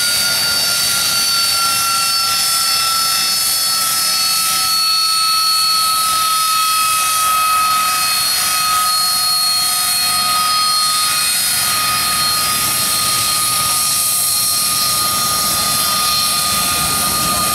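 Sea Harrier's Rolls-Royce Pegasus turbofan running on the ground: a loud, steady jet whine over a hiss, its main tone sinking slightly in pitch.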